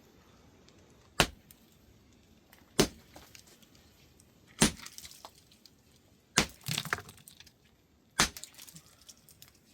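A hand tool striking something hard with five heavy blows, evenly spaced about every two seconds, each a sharp crack.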